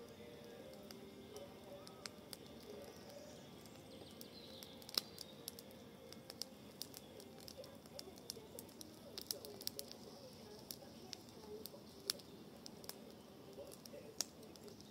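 Fire of pruned branches and brush in a garden fire bowl, crackling with many sharp, irregular pops. Birds call faintly in the background.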